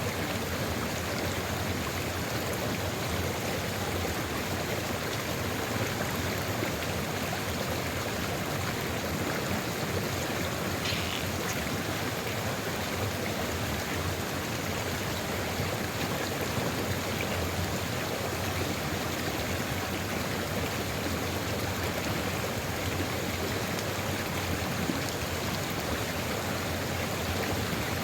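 Sulfur river water flowing steadily over rocks: an even, unbroken rushing of a stream.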